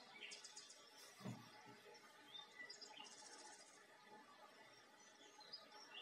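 Faint birdsong: short, high, rapid chirp trills twice, with scattered single chirps over a faint steady background hiss. A soft low thump comes about a second in.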